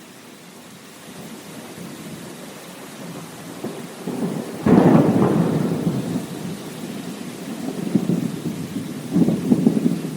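Thunderstorm: steady rain with a sudden loud thunderclap about halfway through that rolls off into rumbling, and another rumble of thunder near the end.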